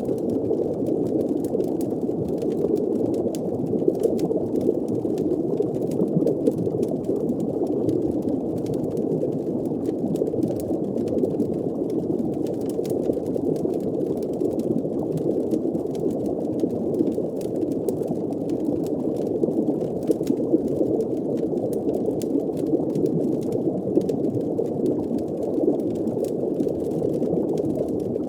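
Muffled underwater ambience: a steady low rush of water and bubbling, with faint scattered fire crackles throughout.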